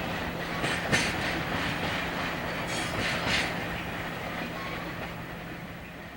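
Freight train wagons rolling past, the wheels clacking over rail joints in a few sharp knocks, the sound fading steadily toward the end.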